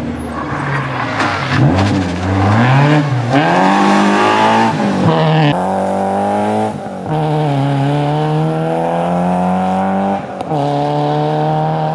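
Renault Clio 1.4 rally car's four-cylinder engine driven hard. Its pitch rises and falls as the car comes through the corner, then climbs steadily in each gear, with upshifts about five and a half, seven and ten and a half seconds in.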